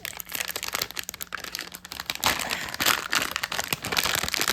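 Plastic packaging crinkling and crackling as it is handled, in an irregular run that grows louder from about two seconds in.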